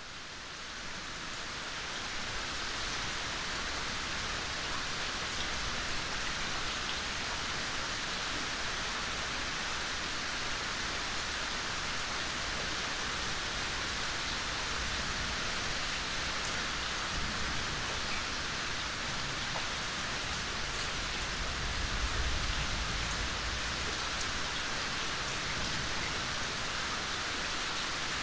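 Steady rain falling on a yard, a dense hiss with scattered drips, fading in over the first couple of seconds. A low rumble of distant thunder swells briefly about three quarters of the way through as the storm approaches.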